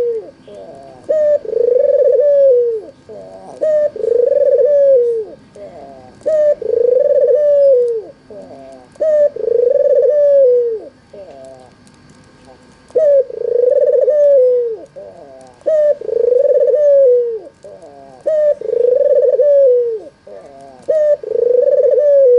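An albino ringneck dove (puter) cooing over and over. A loud, low, rolling coo of about a second comes every two to three seconds, with softer, shorter notes between the coos.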